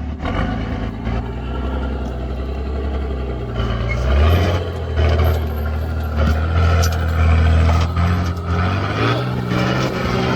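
Four-wheel-drive engine working under load, the revs rising and getting louder about four seconds in, then held high with small rises and falls in pitch.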